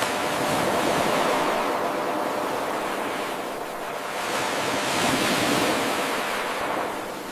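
Ocean waves washing onto a shore, a steady rushing surf that swells and recedes twice. It cuts in abruptly at the start, where the 8-second loop restarts.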